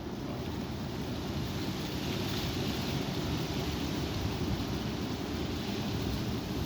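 Strong wind blowing, a steady rush with a low rumble on the microphone that swells a little about two seconds in.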